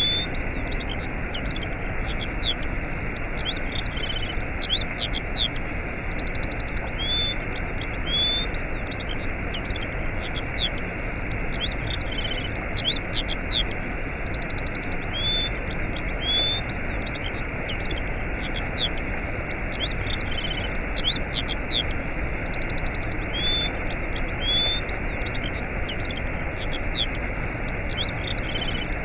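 Waterfall rushing steadily, with small birds chirping over it in quick, repeated calls and short trills.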